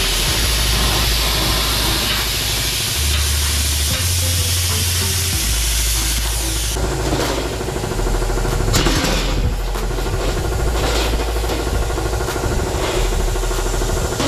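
Handheld plasma cutter cutting a curved line through steel plate: a loud, steady hiss of the arc and its air stream, which stops about seven seconds in. After that come scattered knocks as the cut piece is handled.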